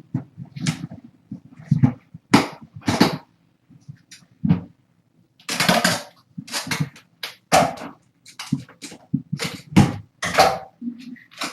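A string of short, irregular rustles, scuffles and knocks of movement and handling, with a short lull about four seconds in.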